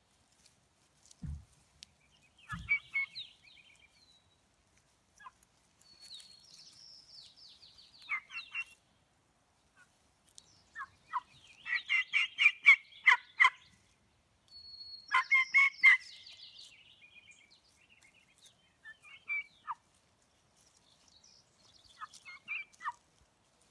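Wild turkeys gobbling: about six rapid, rattling gobbles come one after another, the loudest two near the middle.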